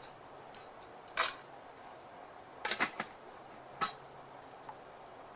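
Metal cutlery clinking against a plate as a steak dinner is eaten: a handful of short sharp clinks, the loudest about a second in and a quick cluster near the middle.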